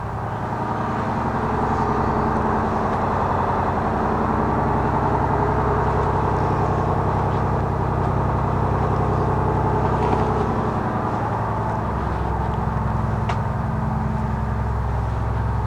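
A 2009 Blue Bird All American bus's rear-mounted Cummins ISC 8.3-litre diesel idling steadily, heard from inside the passenger cabin.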